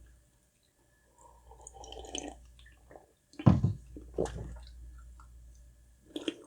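Close-miked eating sounds: soft, wet chewing and mouth noises, with a few sharper wet smacks partway through and near the end.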